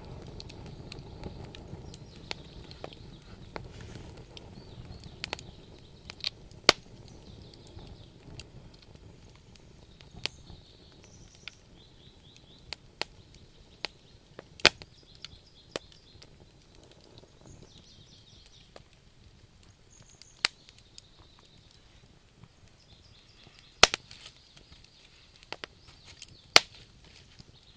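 Wood campfire crackling, with sharp irregular pops from the burning logs over a low rumble that fades during the first several seconds; the loudest pops come about seven, fifteen, twenty-four and twenty-six seconds in.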